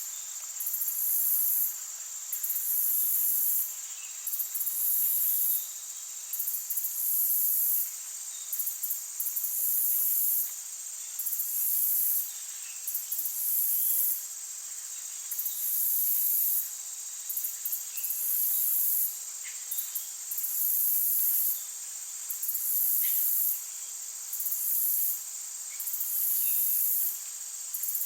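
Insects buzzing in chorus: a high-pitched buzz that pulses on and off about once every second and a half, over a steady high drone, with a few faint short chirps.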